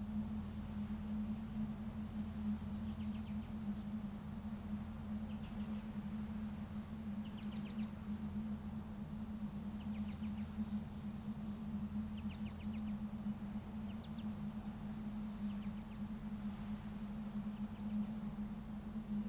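Outdoor evening ambience: a steady low hum, with faint high chirps and short buzzy trills from small animals scattered every second or two.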